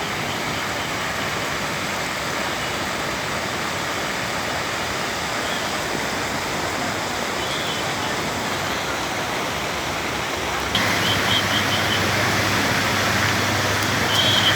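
Swollen, flooding river rushing in a steady, even wash of churning water. About eleven seconds in, it cuts to a louder, fuller rush with more low rumble.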